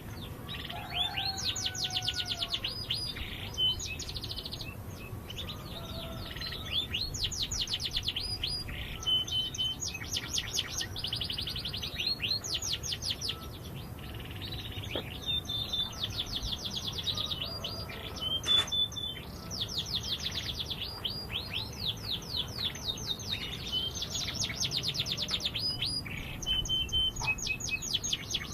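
Domestic canary singing continuously: long, fast trills of rapidly repeated notes, broken by short steady whistled notes. One sharp click about two-thirds of the way through.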